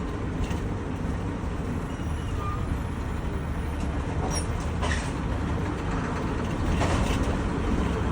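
Steady low rumble of a road vehicle, with a few faint clicks.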